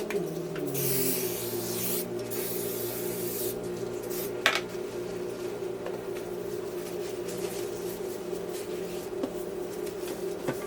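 Household cleaning noise over a steady low hum: a hiss lasting about two and a half seconds, then rubbing, with a single sharp knock about four and a half seconds in.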